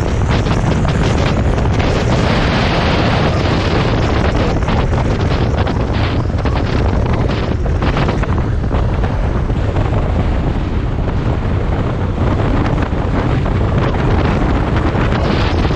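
Loud, continuous wind buffeting the microphone, rumbling and gusting without letup.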